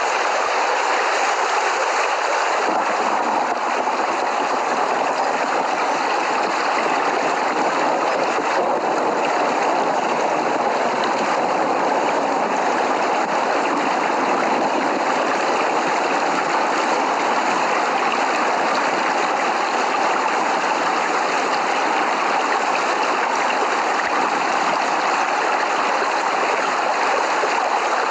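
Steady rain, an even hiss without breaks.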